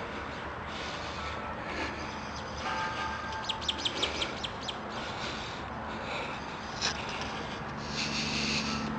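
Birds chirping, with a quick run of sharp chirps about halfway through, over a steady low background noise.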